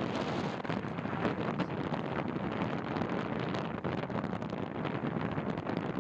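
Wind buffeting the microphone of a camera on a moving bicycle: a steady rush of noise broken by many quick gusty flutters.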